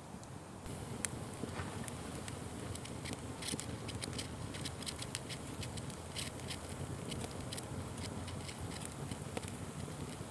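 Wood fire crackling, with many irregular sharp pops and snaps over a low steady rumble of burning, picking up slightly about half a second in.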